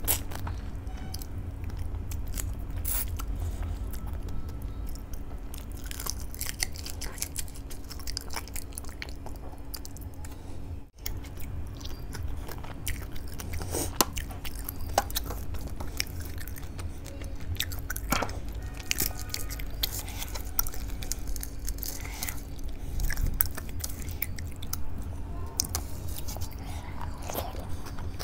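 Close-miked chewing and mouth sounds of a person eating rice and hilsa fish head curry by hand, with many short sharp clicks throughout over a faint steady hum, and a brief break about eleven seconds in.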